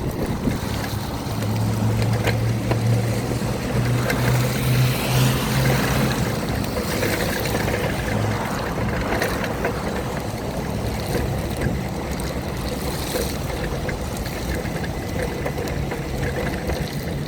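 Steady rushing noise of tyres and spray on a wet road in the rain, with a low hum during the first six seconds or so.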